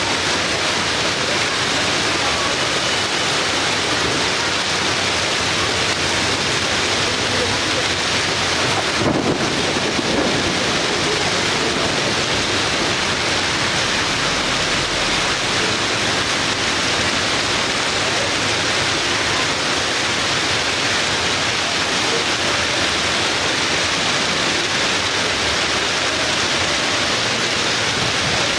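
Steady, even downpour of rain, with one brief sharp knock about nine seconds in.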